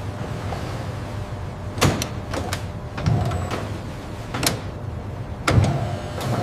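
Machinery running with a steady low hum, broken by several sharp knocks and clacks, the loudest about five and a half seconds in.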